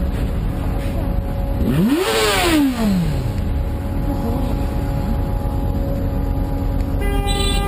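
Steady road and engine rumble from traffic. About two seconds in, an engine revs up and back down in one rising-then-falling sweep. Near the end a car horn starts sounding steadily.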